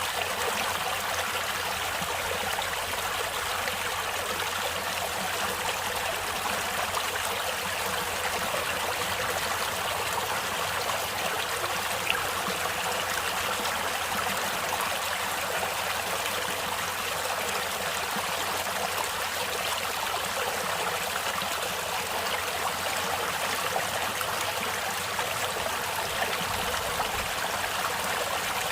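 Stream water flowing and splashing steadily over stones, an even rushing hiss with no pauses.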